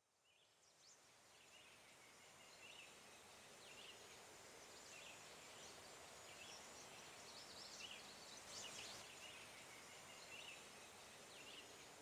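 Faint outdoor ambience with distant birds chirping here and there, fading in over the first couple of seconds.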